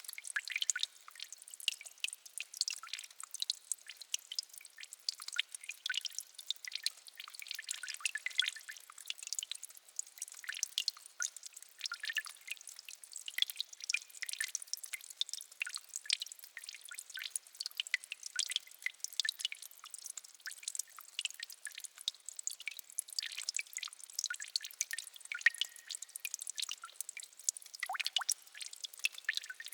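Quiet water dripping at the edge of a peat bog: many small drips falling quickly and irregularly, often overlapping, with no let-up.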